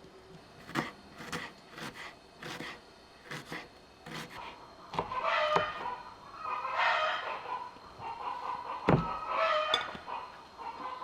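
A run of sharp taps, then several animal calls from domestic animals, with one hard knock between them.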